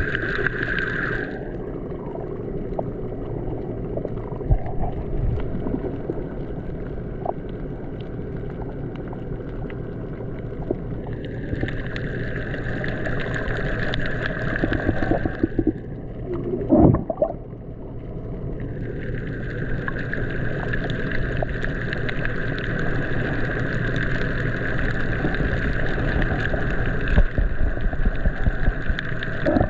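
Water rushing and gurgling along the hull of a boat under way, a steady wash whose hiss swells for a few seconds in the middle and again in the second half.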